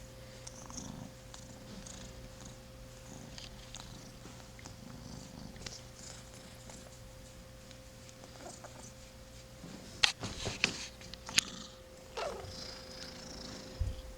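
Young kitten purring steadily while being petted, his nose congested. A few sharp knocks about two-thirds of the way through are the loudest sounds.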